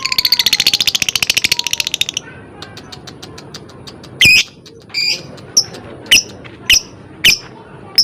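Lovebird calling: a fast, high chattering trill for about two seconds, then, after a short lull, a series of loud sharp chirps about every half second.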